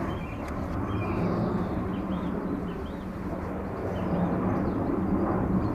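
Lawn mower running steadily.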